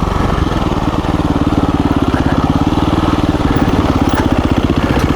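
KTM 350 EXC-F dirt bike's single-cylinder four-stroke engine running at low, steady revs with an even firing beat.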